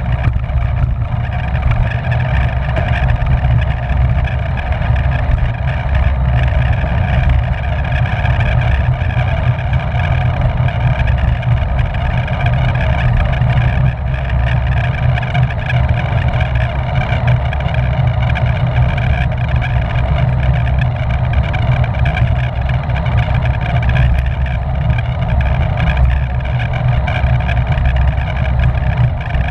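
Loud, steady wind rumble on the microphone of a camera riding on a racing bicycle at speed, with a steady whir of tyres and drivetrain above it.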